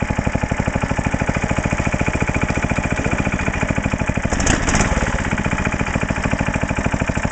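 Sears garden tractor's 16 hp Tecumseh engine running steadily with even firing pulses. About four and a half seconds in there is a short, louder burst of noise.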